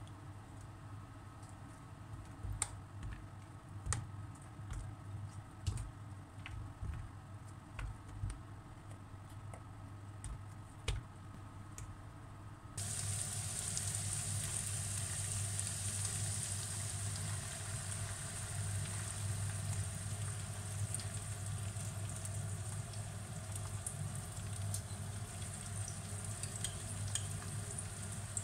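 Zucchini slices being laid into hot oil in a frying pan: scattered soft taps and knocks over a faint sizzle. About halfway through it cuts abruptly to sliced mushrooms and onion frying, a steady, louder sizzle.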